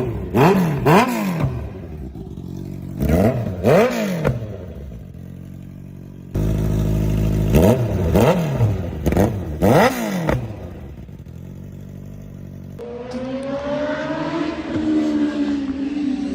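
Honda CBR650F inline-four, fitted with a catless Austin Racing mid-pipe exhaust, revved in short sharp throttle blips that rise and fall, in two bursts of about four blips each, with idle between them. The revving stops about thirteen seconds in and gives way to a steadier, smoother sound.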